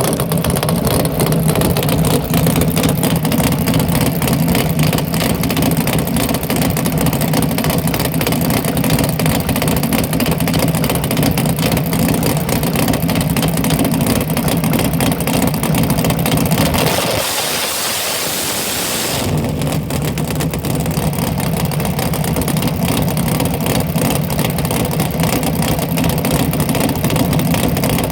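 Drag car engine idling loud and steady. About seventeen seconds in, the low rumble drops away for roughly two seconds while a rushing hiss takes over, then the steady idle returns.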